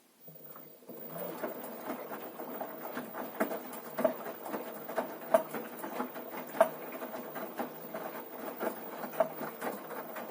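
Washing machine running with a repeated knocking and clicking inside it, several sharp knocks standing out above a steady mechanical clatter. It starts about a third of a second in. The cause of the knock is unknown: the machine is level and its shock absorbers, springs and counterweights have been checked and found in order.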